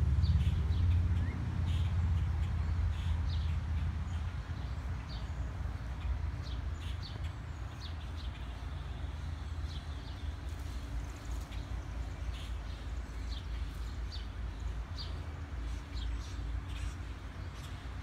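Wild birds giving short, high chirps, scattered throughout, over a low rumble that fades away over the first several seconds.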